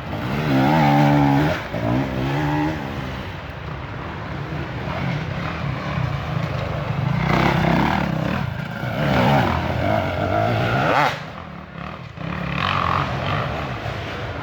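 Dirt bike engines revving hard, their pitch rising and falling as bikes pass. The loudest bursts come about a second in and again from about seven to eleven seconds in.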